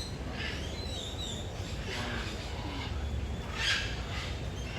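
Birds calling: a few short, quick chirps in the first second or so, with a couple of brief hissy sounds later, over a steady low rumble.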